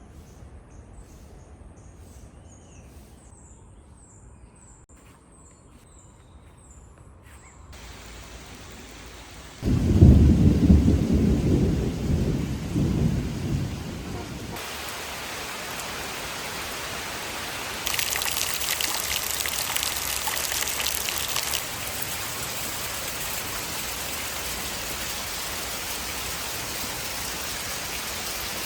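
Faint bird chirps, then a loud low rumble of thunder lasting about five seconds, followed by steady rain that grows heavier for a few seconds and then settles.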